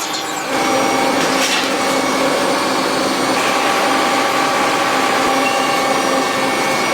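Factory machinery running steadily, a dense mechanical noise with a few faint steady tones in it; it swells up in the first second and begins to fade near the end.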